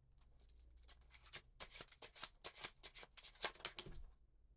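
A cat moving among small objects on a table: a quick run of faint rustles and light taps that stops suddenly about four seconds in.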